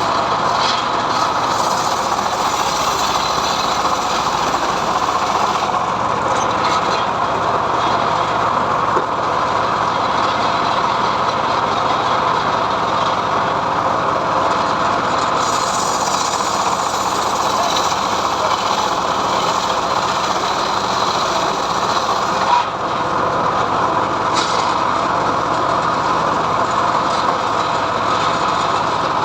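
Homemade srekel sawmill saw ripping mahogany, a loud, steady machine noise that runs on without a break.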